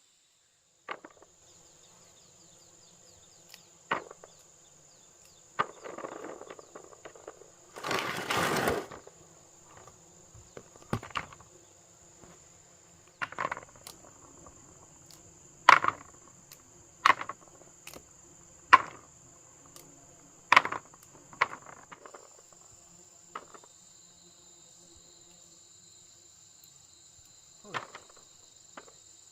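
Steady high-pitched chirring of insects such as crickets, with a dozen or so sharp, irregular knocks and a scraping, rustling burst about eight seconds in.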